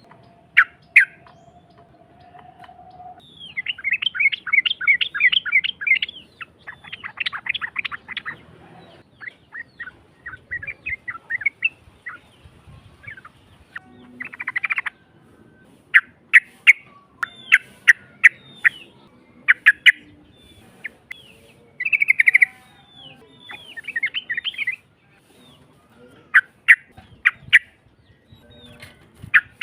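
Yellow-vented bulbul (trucukan) singing: rough-voiced chattering phrases and rapid trills, repeated in bursts of a second or two with short pauses between.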